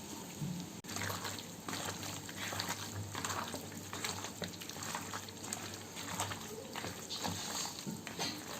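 Raw chicken being mixed into a thick, wet spice marinade in a bowl: a run of irregular, soft, wet stirring and squishing sounds.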